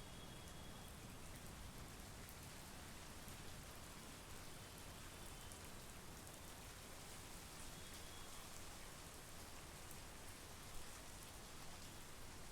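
Steady monsoon rain falling on foliage and ground, an even hiss with scattered drop ticks and one sharper tick near the end.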